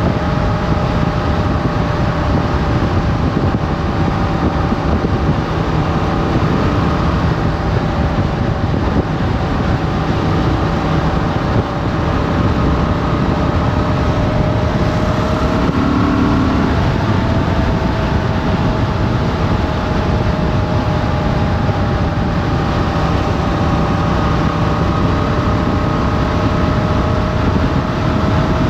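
Motorcycle engine running at a steady cruising speed, heard onboard over a constant rush of wind and road noise; the engine note changes briefly about halfway through, then settles again.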